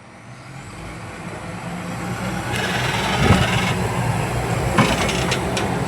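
A large engine running steadily and growing louder over the first two seconds, with rattling and clanking around the middle and near the end.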